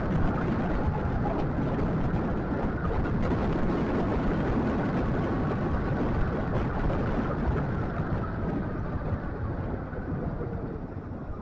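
Scooter riding along a road: steady motor and road noise with wind rushing over the microphone, easing slightly near the end.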